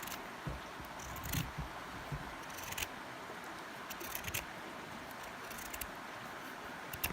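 Steady outdoor background hiss with scattered light clicks and knocks, a few clustered together, one sharp click near the end.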